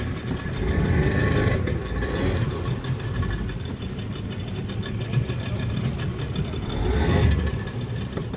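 A boat's outboard motors running steadily, a pair of 40-horsepower Yamahas. The sound swells louder twice, about a second in and again near the end.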